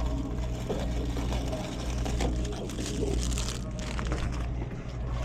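Busy shop ambience: a steady low electrical or mechanical hum under faint background voices, with scattered small clicks and rustles.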